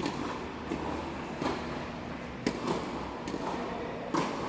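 Tennis ball being struck by rackets and bouncing on the court: a series of sharp knocks, irregularly spaced a second or less apart.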